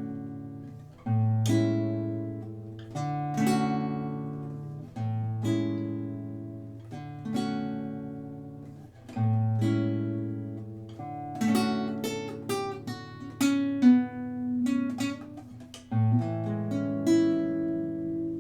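Acoustic guitar playing a song's instrumental outro: chords struck about every two seconds and left to ring out, with quicker picked notes in the middle, ending on a held chord.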